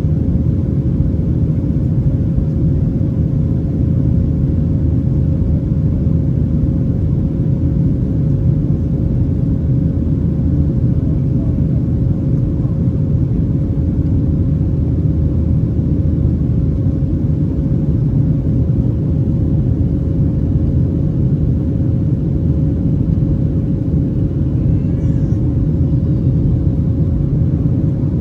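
Steady cabin noise inside a Boeing 737-800: an even, loud rumble of its CFM56-7B engines and airflow, with a thin steady hum tone riding above it.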